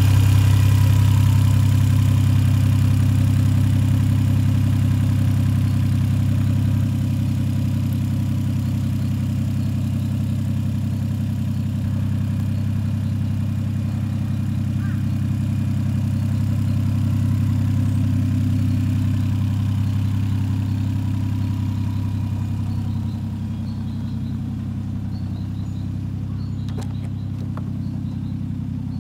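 Toyota 1JZ-GTE 2.5-litre turbocharged inline-six in a Crown JZS171, idling steadily. It eases slightly quieter as the run goes on.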